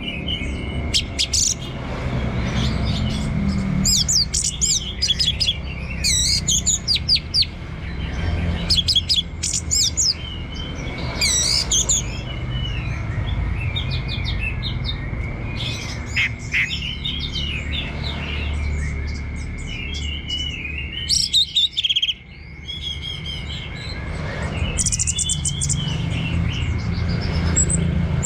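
Orange-headed thrush singing in the continuous 'teler' style: bursts of quick, varied whistles and trills every second or two, over a faint steady high tone and a low rumble.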